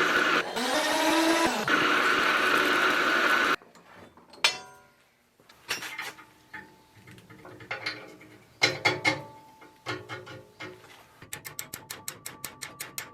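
Milling machine running with a steady whine, which cuts off suddenly a few seconds in. After that come scattered metal clinks and knocks, some of them ringing briefly, then a quick run of even clicks, about eight a second, near the end.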